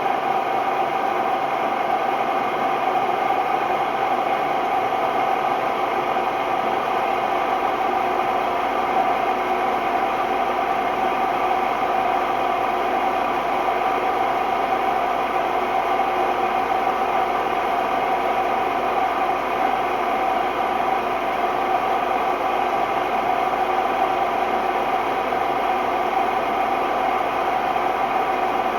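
Hotpoint Ultima WMD960 washing machine spinning at a steady speed, extremely noisy: a steady tone over a rushing noise, the sound of bad drum bearings.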